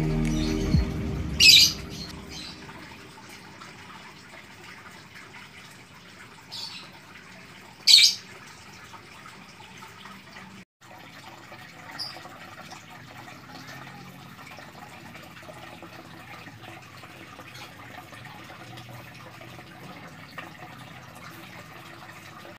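Background music fading out, then a quiet steady background with a few short bird chirps; the loudest come about a second and a half and eight seconds in.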